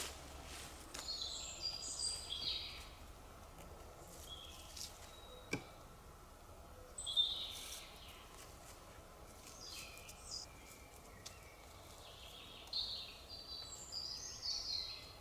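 A songbird singing in short, quick, high chirping phrases, three bouts in all, over a faint steady hiss. A single sharp click comes about five and a half seconds in.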